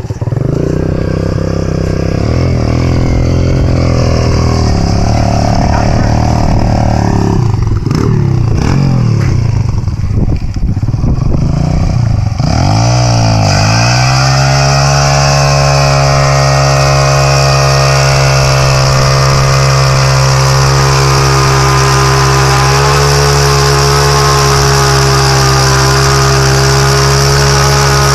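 Dirt bike engine revving up and down for about the first half. Then it dips briefly and climbs to a steady high rev that it holds to the end.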